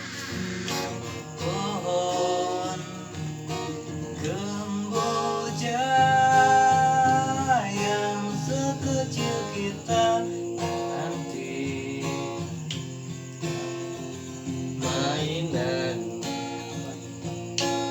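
Acoustic guitar strummed as the introduction of a song, with long held, wavering sung notes over it, the loudest about six seconds in.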